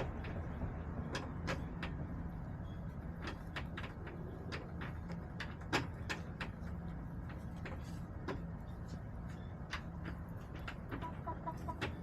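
Backyard hens clucking softly amid many irregular sharp clicks and taps, with one louder tap about halfway through, over a steady low hum.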